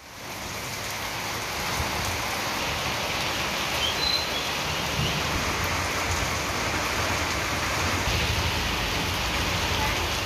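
Heavy rain pouring down on a paved road: a dense, steady hiss of downpour that swells up over the first second or two and then holds.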